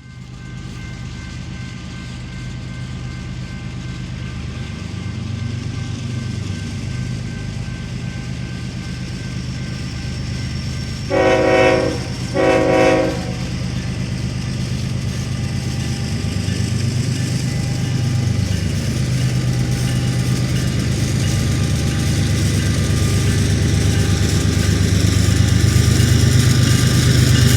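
Approaching train: a steady locomotive engine drone that slowly grows louder, with two short horn blasts a little over halfway through and another horn blast starting at the very end.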